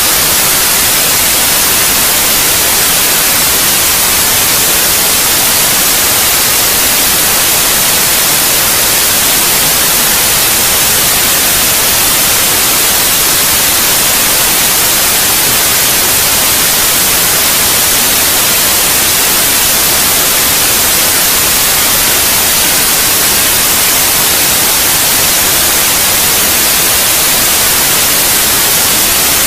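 Steady white noise: an even, unbroken hiss, strongest in the high range, played as a sleep sound for babies.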